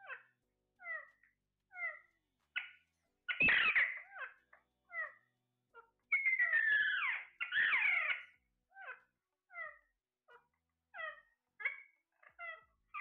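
Parrot calling: short pitched chirps repeated about every 0.7 s. Two longer, louder harsh squawks come about three and a half seconds in and again from about six to eight seconds.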